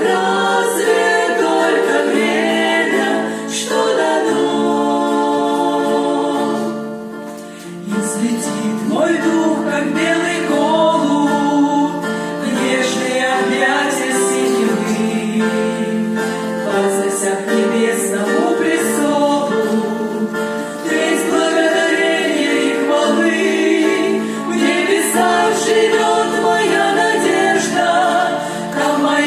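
Church worship group singing a Christian song together in several voices, with a short lull about seven seconds in.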